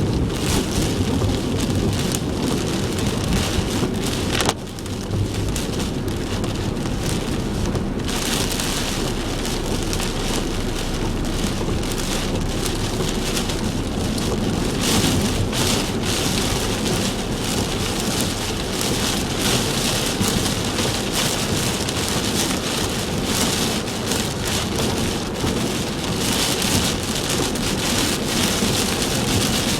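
Heavy typhoon rain beating on a car, heard from inside the cabin, over a steady low rumble of the car on the road. About four and a half seconds in there is a short click, the rain sound is softer for a few seconds, then comes back harder.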